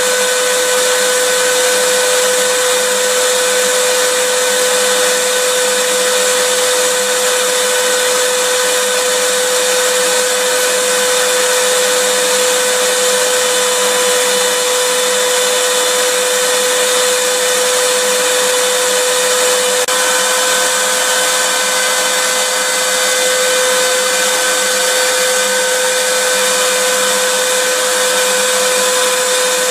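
Vacuum cleaner running steadily: a constant motor whine over a rush of air, with a slight shift in the whine about twenty seconds in.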